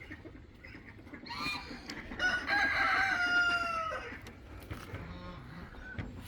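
A rooster crowing once: one long call of about two seconds, starting about two seconds in and dropping a little at the end. A shorter call comes just before it, and chickens cluck around it.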